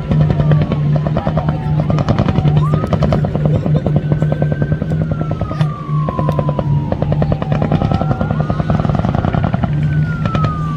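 Helicopter running close: a fast, steady rotor chop over a low hum, with a whine that slowly falls in pitch and then jumps back up, twice.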